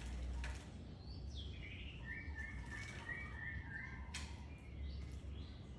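White-rumped shama (murai batu) singing: a falling whistled phrase followed by a run of repeated short notes. Two short sharp sounds cut in, a faint one near the start and a louder one about four seconds in, over a low steady hum.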